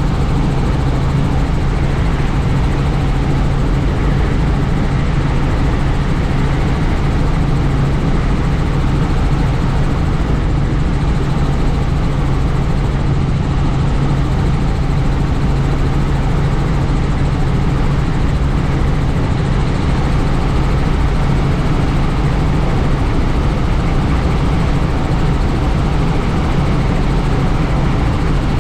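Helicopter in flight, heard from aboard: a loud, steady drone of rotor and engine with a low hum and rushing wind noise.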